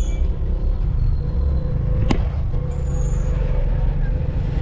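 A car driving, with a steady low rumble of engine and road noise from inside the cabin. There is a single sharp click about two seconds in.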